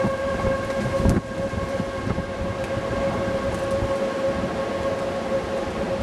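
Outdoor tornado warning siren sounding one steady tone, over a low rumbling noise, with a sharp thump about a second in.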